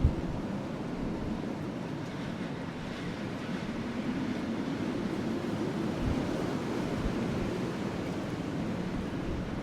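Steady rushing of wind blowing over a burning wood fire, with a few soft low thumps from the fire: once near the start and again about six and seven seconds in.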